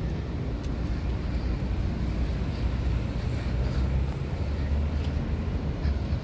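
Steady low rumble of road traffic, with no clear single event.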